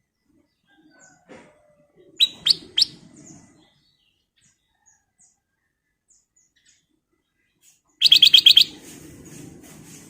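Black-crested bulbul calling: three sharp, loud notes about two seconds in, then near the end a rapid run of about eight notes that trails off into softer repeated notes.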